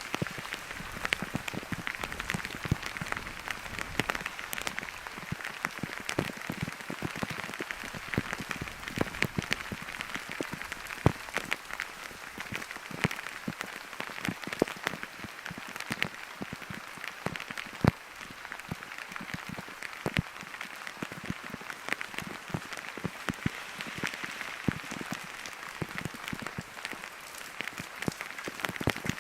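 Steady rain falling, with many sharp, irregular drops ticking on a surface close to the microphone.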